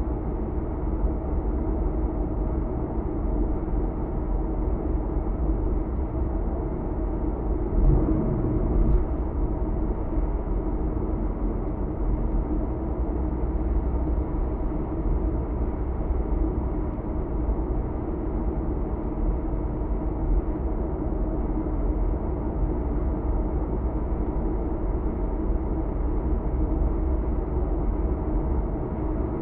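Steady road and engine noise inside a car cruising on an expressway, with two brief thumps about eight and nine seconds in.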